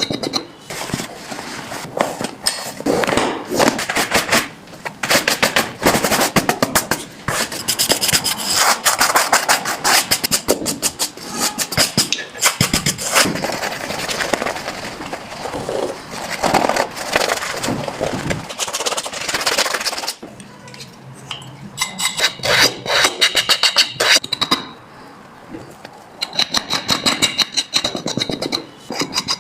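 Rapid, rhythmic brushing and rubbing strokes on a shoe during a shoe shine, in quick runs with two brief lulls in the later part.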